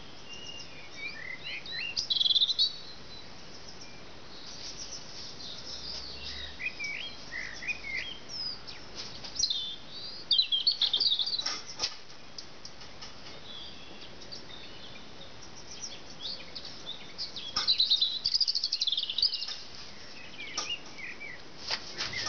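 Wild birds singing in the garden: short chirps and twittering phrases over a faint steady outdoor hiss, with louder bursts of twittering about two seconds in, again around ten to twelve seconds, and around eighteen seconds.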